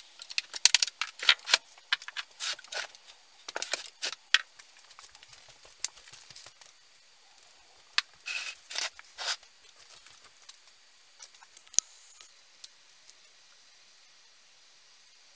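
Handling noises of tools and parts during a chainsaw restoration: irregular clicks, light rattles and scrapes, busy for the first half, then sparse, with one sharp knock about twelve seconds in.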